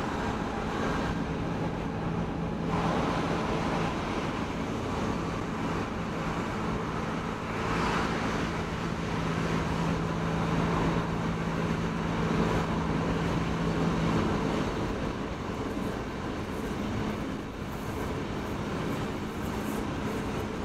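Inside a Stockholm X10 electric commuter train running at speed: steady rumble of the wheels on the track with a low electric hum from the drive, which stops about fifteen seconds in.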